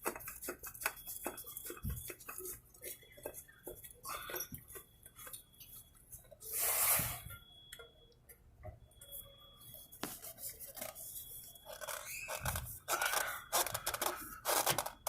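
Scattered small clicks and knocks of hand work on parts, with a brief rush of noise about seven seconds in.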